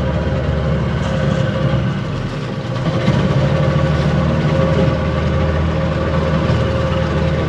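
A boat's motor running steadily, a little louder from about three seconds in.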